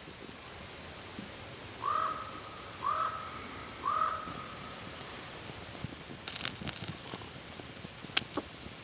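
A crow cawing three times, about a second apart, over a steady hiss. A few sharp crackles follow near the end.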